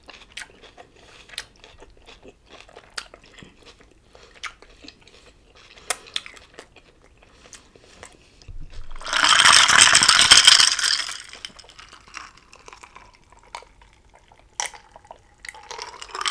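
Close-miked chewing of a chicken gyro wrap in a flour tortilla: soft wet mouth clicks and smacks. About nine seconds in, a loud rushing noise lasts about two seconds, then the quiet chewing resumes.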